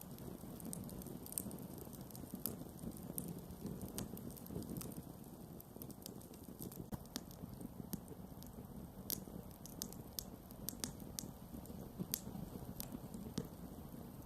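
Campfire burning with a steady low rush of flames and irregular sharp crackles and pops from the burning wood, a few louder snaps among them.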